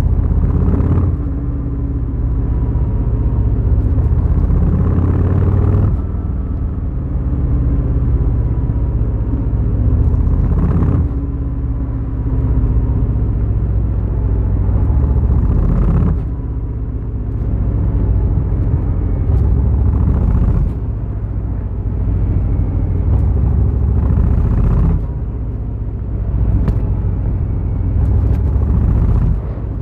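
Harley-Davidson Fat Boy's V-twin engine running under way, with its level dipping briefly every four to five seconds as the throttle is closed and opened again.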